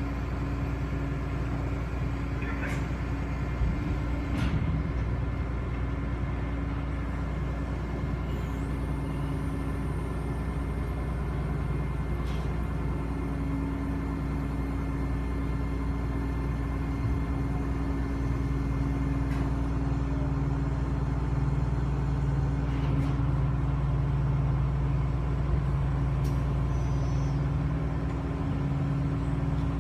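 Ferry engines droning steadily: a low rumble with a constant hum over it, and a few faint knocks.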